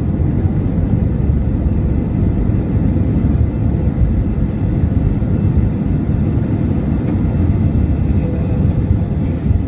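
Airbus A320-200 cabin noise from a window seat during the departure: a steady, loud, low rumble of the jet engines at high thrust and the airflow past the fuselage.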